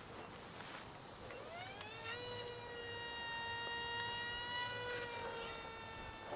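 Small electric motor of a free-flight toy plane spinning its propeller: a whine that rises in pitch about one and a half seconds in, then holds steady.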